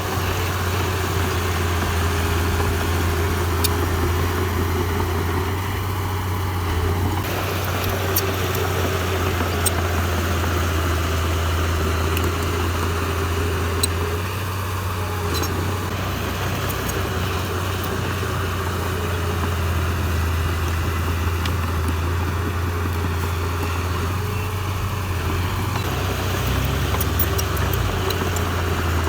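Diesel engine of heavy construction machinery running steadily with a low drone, with a few sharp clicks scattered through. The engine note drops slightly near the end.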